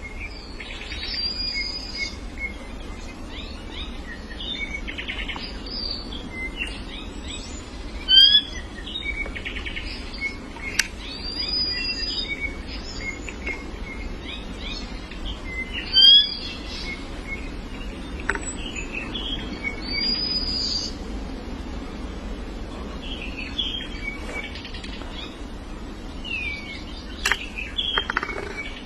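Several birds chirping and calling in a busy chorus of short whistled notes and quick pitch glides, with two louder calls standing out about 8 and 16 seconds in, over a steady low background noise.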